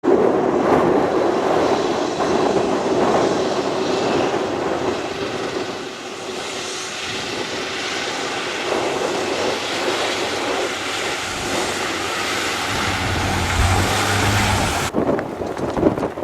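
MAN rally truck driving, a loud steady rush of engine and road noise, with a deep rumble swelling about thirteen seconds in before the sound changes abruptly near the end.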